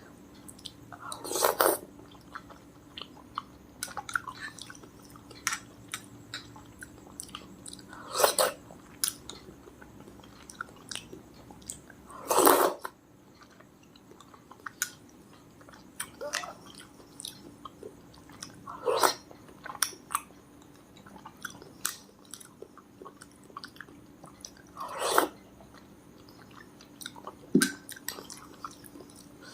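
A person chewing food close to the microphone: wet mouth clicks, with louder crunchy bites about every four to six seconds.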